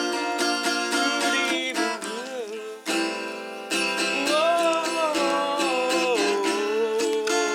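Acoustic guitar strummed in chords, with a voice singing a gliding melody line over it.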